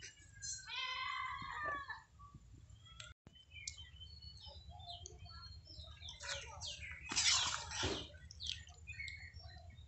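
Birds chirping and calling, many short chirps and some longer bending calls, with a louder, harsher call lasting about a second some seven seconds in.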